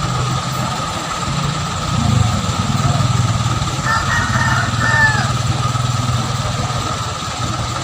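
Truck engine running steadily, getting a little louder about two seconds in. A rooster crows about four seconds in.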